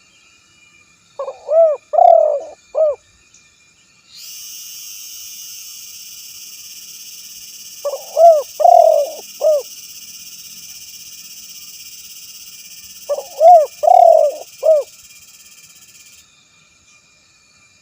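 Spotted dove (tekukur) cooing: three phrases of about five short, low coos each, spaced about six seconds apart. A steady high hiss starts about four seconds in and stops near the end.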